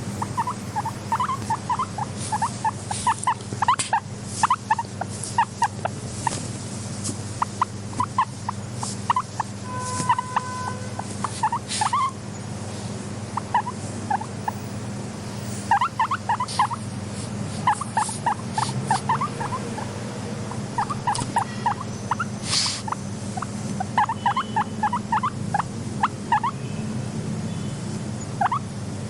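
Guinea pigs squeaking in quick clusters of short, high chirps, with scattered clicks, over a steady low hum.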